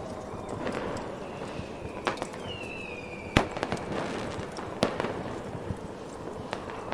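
Fireworks going off: a few sharp bangs with scattered pops and crackles, the loudest a little past the middle, with a short falling whistle just before it. Under them runs the steady rushing noise of a snowstorm wind.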